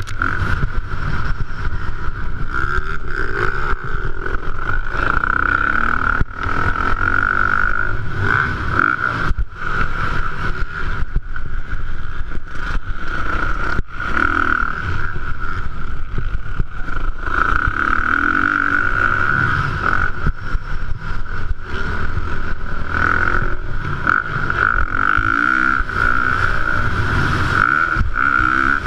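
A 450cc four-stroke motocross bike engine running hard in a race. It is loud and continuous, with a steady high tone over a low rumble, broken by many short momentary dips.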